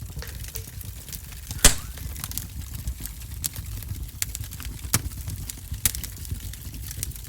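Wood fire crackling in a wood-burning stove: a low steady rumble under irregular sharp pops, the loudest pop about one and a half seconds in.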